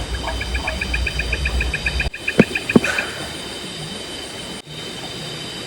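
Night rainforest insects shrilling steadily on several high notes, with a rapid pulsed call of about eight beats a second over the first half. Two sharp knocks, the loudest sounds, come about two and a half seconds in.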